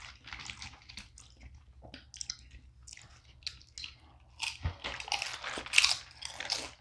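Crunchy food being bitten and chewed: irregular crackling crunches, with a louder run of crunches about five seconds in.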